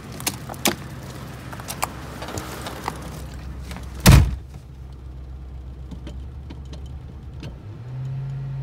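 2000 Mercury Grand Marquis V8 idling on a cold start in freezing weather, running in a way the owner says doesn't sound right at all. Light clicks come through the idle, a single loud thump follows about four seconds in, and the engine note steps up louder near the end.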